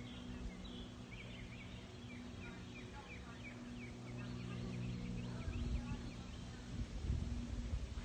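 Birds chirping in short repeated calls over a steady low drone; the drone stops about five and a half seconds in, and a few dull thumps follow near the end.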